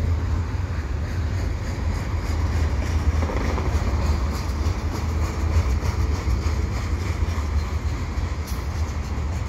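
Freight train cars (open hoppers, covered hoppers and a tank car) rolling past: a steady rumble of steel wheels on rail.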